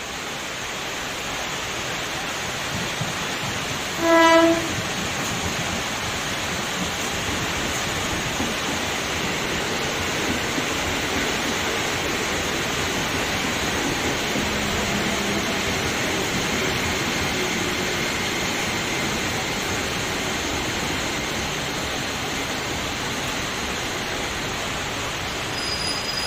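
KRL Commuter Line electric train approaching and running along the station platform in the rain, its wheels on the rails making a steady rushing noise. One short horn blast sounds about four seconds in.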